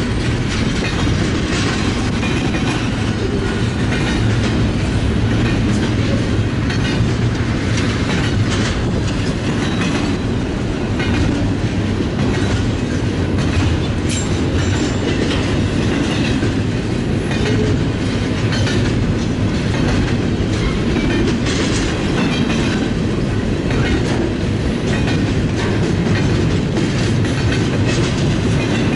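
BNSF freight train rolling past, a steady rumble with the clickety-clack of wheels crossing rail joints.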